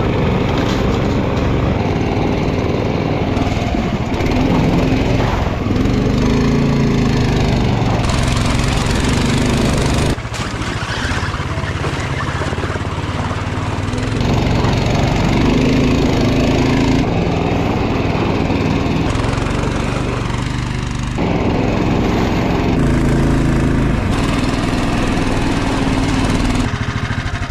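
Small engine running steadily under load, its pitch stepping up and down every few seconds.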